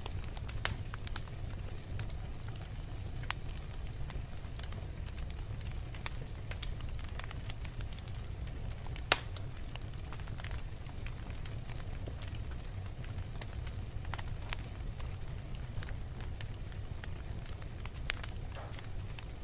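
Wood logs burning in a fireplace, crackling with a steady low rumble of flame and scattered sharp pops. One pop about halfway through is clearly louder than the rest.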